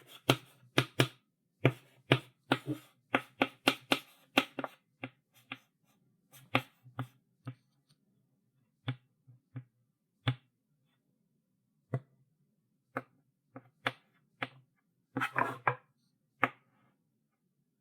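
Chalk writing on a blackboard: sharp taps and short strokes of the chalk, several a second at first, then thinning to single taps a second or more apart, with a short scratchy run of strokes about fifteen seconds in.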